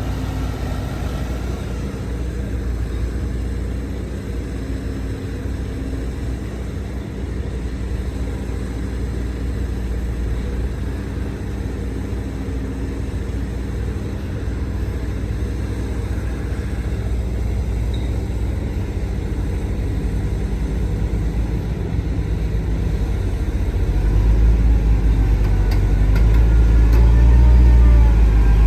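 Heavy diesel earthmoving machinery running steadily with a low engine rumble, which grows louder near the end as the engine picks up.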